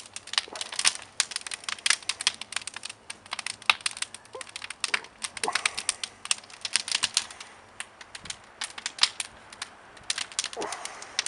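Burning firewood crackling and popping in a wood stove: irregular sharp snaps, several a second.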